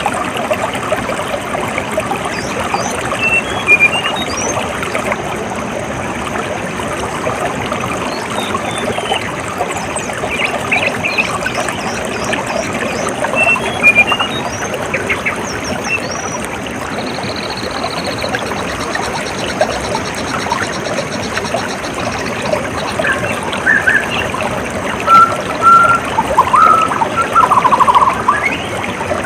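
Water trickling steadily, as a small stream or runoff, with birds chirping now and then over it. A short buzz and a rapid trill come about midway, and louder chirps near the end.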